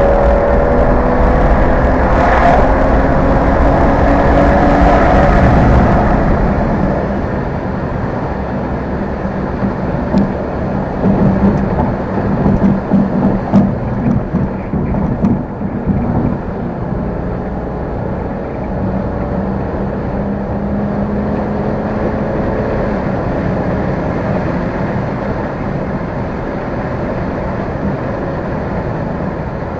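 BMW N55 turbocharged inline-six engine and exhaust pulling hard for about six seconds, its pitch climbing, then backing off to a steadier cruise. Several uneven stabs of throttle come in the middle before it settles again.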